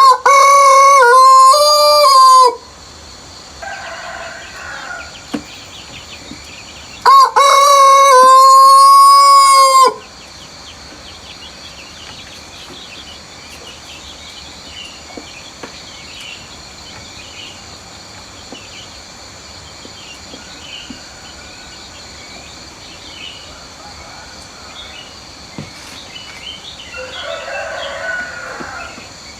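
A rooster crowing twice, close and loud, each crow about three seconds long, with fainter calls farther off in between and near the end. A steady high insect trill runs underneath, with small bird chirps.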